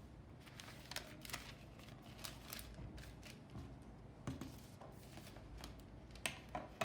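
Scissors snipping paper in short, irregular cuts, working out small circular eye holes.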